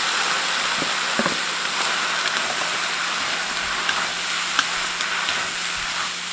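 Diling (ground-fungus) filling sizzling in hot lard in a pan as it is stir-fried, with a few short knocks from the stirring.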